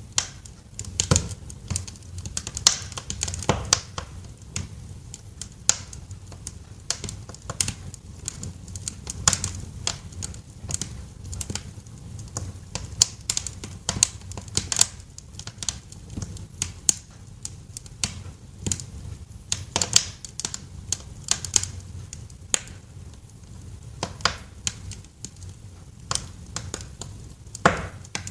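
Wood fire crackling in a fireplace: irregular sharp snaps and pops, several a second, over a steady low rumble of the burning logs.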